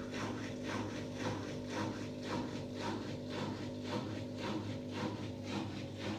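Samsung washing machine on its spin cycle at about 1000 rpm, a steady drum hum with a rhythmic squeak about twice a second. The squeak comes with a badly unbalanced load on this 14-year-old machine, and the owner takes it for worn drum bearings.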